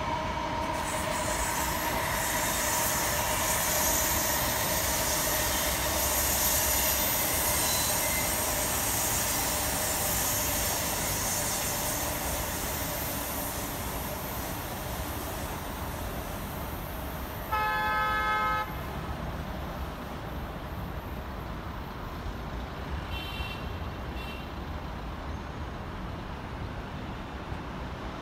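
CRH1A high-speed electric multiple unit running, a steady rumble and hiss with a faint steady whine that slowly grows quieter. About two-thirds of the way in a horn sounds once for about a second, and a little later come two faint high tones.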